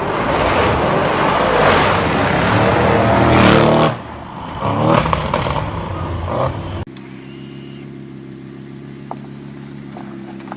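Audi performance car engine and exhaust revving hard with rising pitch, falling off about four seconds in, then a second shorter rev. Near the middle it cuts abruptly to the engine idling steadily.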